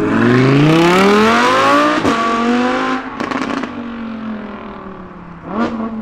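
Car engine revving hard as the car accelerates away, its pitch climbing for about two seconds before a brief break and a steadier stretch. About three seconds in comes a quick run of sharp exhaust cracks, then the engine fades, with a short rev blip near the end.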